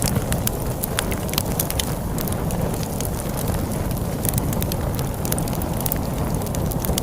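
Wood fire crackling with frequent sharp pops, over a steady low rumble of storm wind.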